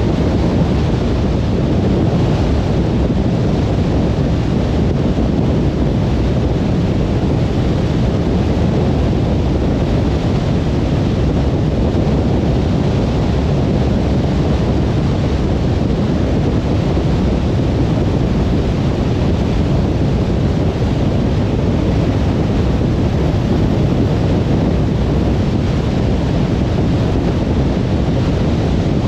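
Steady low road noise of a car cruising on a motorway: tyre rumble and wind, even and unbroken, with no separate events.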